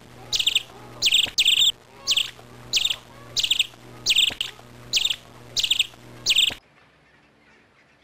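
A bird giving the same short chirping call over and over, about one call every two-thirds of a second, over a low steady hum. The sound cuts off abruptly about two-thirds of the way through.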